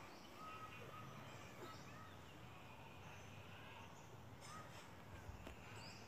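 Faint outdoor ambience with a few short, faint bird calls scattered through it.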